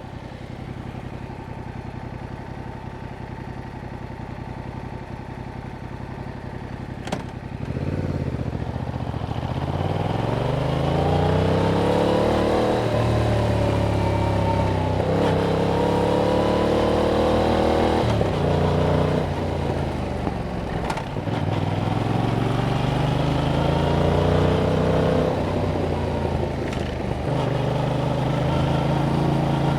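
Yamaha MT-07's parallel-twin engine through its stock exhaust, running low and steady, then after a click it pulls away and accelerates through several gears, the note rising and dropping back at each shift, before settling into a steady cruise.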